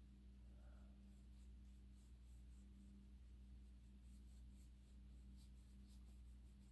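Near silence: faint scratchy strokes of a paintbrush working paint onto the painting, over a steady low hum.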